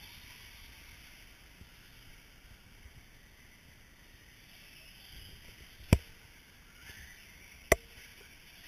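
Radio-controlled short-course trucks running on a track, their electric motors giving a faint whine that rises and falls, with two sharp loud knocks about six and nearly eight seconds in.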